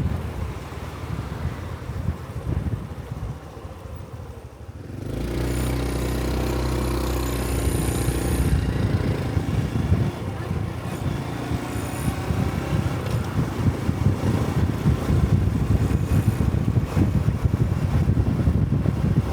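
Honda Cub 125 cc motorcycle being ridden, heard with wind rushing over the rider's mic. About five seconds in, a steady engine note rises up clearly for a few seconds. After that it is buried under heavy wind noise as the bike keeps going.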